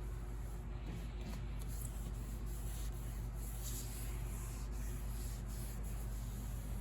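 Soft, steady rubbing on the piano's wooden case as finish solvent is worked over the faded lacquer, over a steady low hum.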